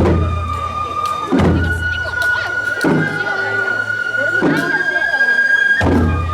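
Shrine festival music: a flute holds long notes, stepping up in pitch about two thirds of the way through, over a drum struck about every one and a half seconds, each stroke ringing low.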